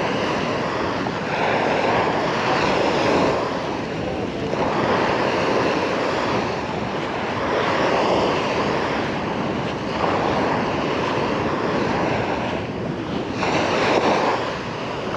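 Small sea waves washing onto the beach, the wash swelling and easing every two to three seconds.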